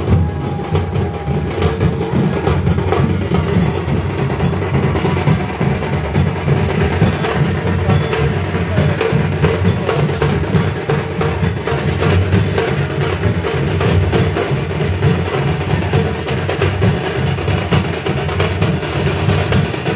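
Percussion music: drumming with many sharp, clattering strikes and some ringing metal, going on steadily without a break.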